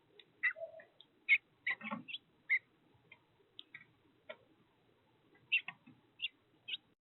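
Small birds chirping at a feeder: a dozen or so short, sharp chirps in an irregular scatter, with a couple of faint low knocks among them.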